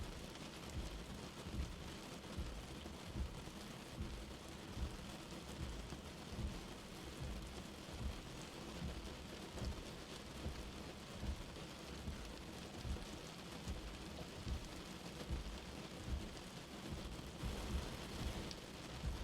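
Light rain falling steadily, an even hiss of drops, with soft low thumps recurring at a fairly even pace, about one every second and a half.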